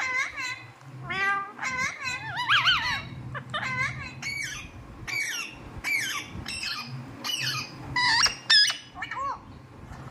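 Pet parrot giving a string of short squawks and whistled calls, each gliding up and down in pitch, about one or two a second, over a low steady hum.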